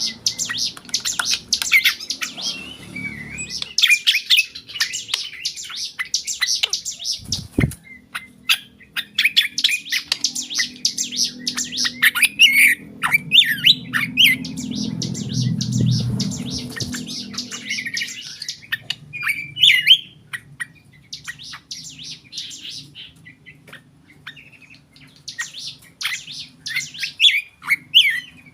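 Black drongo singing a varied run of sharp chirps, chatters and short whistles in quick phrases with brief pauses between them.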